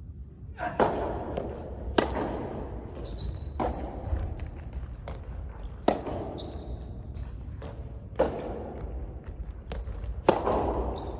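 Soft tennis rally: the rubber ball is struck by rackets about every two seconds, each hit a sharp pop, with shoes squeaking on the court between shots.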